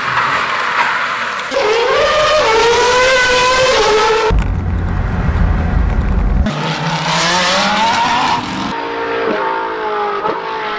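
Car engines revving hard in a string of short cut-together clips, each ending abruptly, with engine notes rising as the cars accelerate. In the middle comes about two seconds of loud, low engine drone from inside a race car's cabin.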